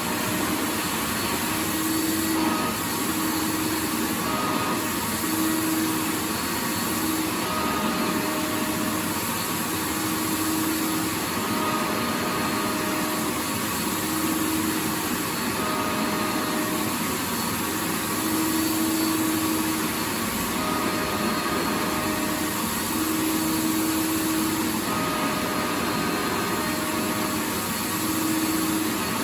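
Vacuum cleaner motor running continuously: a steady, dense whooshing noise, with a faint hum underneath that fades in and out every second or two.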